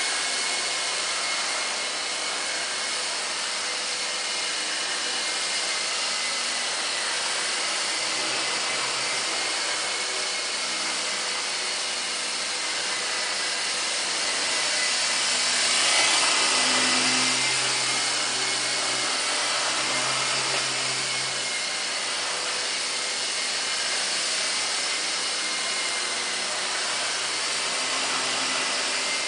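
Small electric radio-controlled helicopter (Nine Eagles 209A) whirring steadily in flight: motor whine over a hissing rotor rush, swelling louder about halfway through before settling back.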